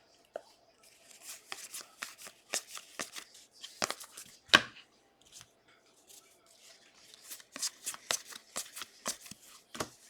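NFL trading cards being handled and flipped through, a quick run of dry flicks and rustles of card against card. A sharper snap comes about four and a half seconds in, then a short lull before the flicking starts again.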